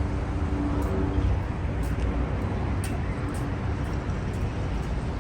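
Steady city traffic noise, a low rumble with a vehicle's engine hum that drops away about a second in.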